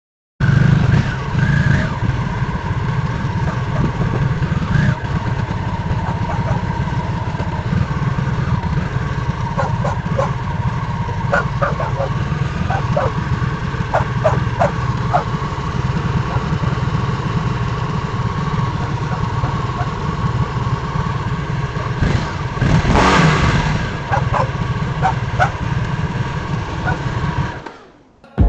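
Harley-Davidson V-twin motorcycle engine running steadily with a deep throbbing low end, a brief louder surge about three-quarters of the way through, then fading out at the end.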